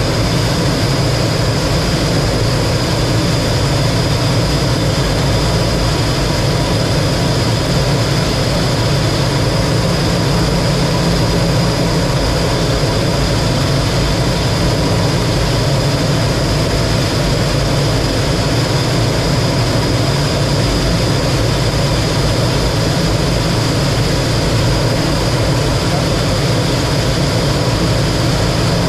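Steady drone of a T-33 jet trainer's turbojet engine and rushing air heard in the cockpit, a deep rumble with a thin high whine above it and no change throughout.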